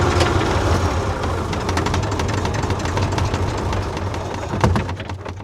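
Tractor engine running steadily with a low drone, with many sharp clicks and rattles over it and a louder knock about four and a half seconds in; the sound fades near the end.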